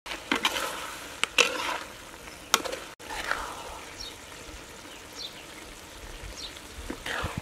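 Eel and basil stir-fry sizzling in a wok while a metal spatula stirs it, with several sharp clanks of the spatula against the wok in the first three seconds. After a cut about three seconds in, the sizzling goes on more quietly.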